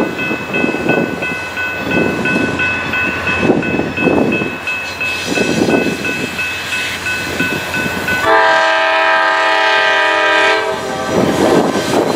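Norfolk Southern freight train led by GE C40-9W locomotives approaching, with a rumble that swells and fades about once a second and a thin, steady high ringing tone over it. About eight seconds in, the locomotive horn sounds one loud chord for about two seconds.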